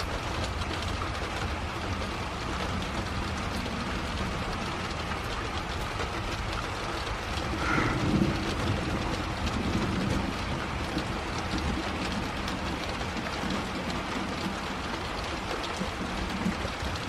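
Steady rain falling, with a brief louder sound about eight seconds in.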